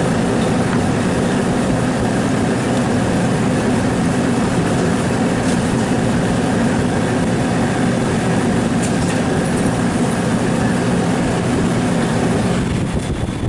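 Steady mechanical running noise with a low hum, easing off about twelve and a half seconds in.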